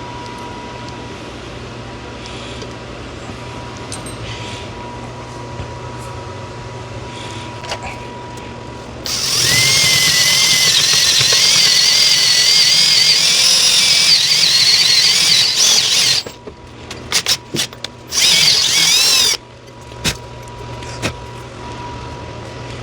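Electric drill boring out the pin hole of a steel door hinge to oversize, the bit cutting with a wavering high whine. It starts about nine seconds in and runs steadily for about seven seconds, then a few short bursts and one last run of a second or so.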